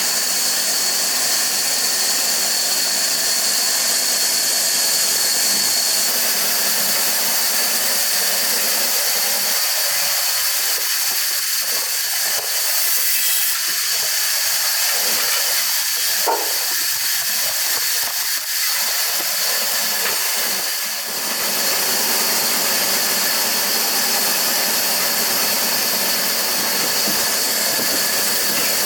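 Steady hissing noise of a running machine, with faint steady hum tones under it.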